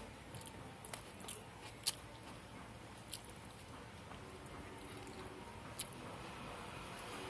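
A person chewing food with the mouth closed, with a handful of small, sharp mouth clicks scattered through it, the loudest about two seconds in.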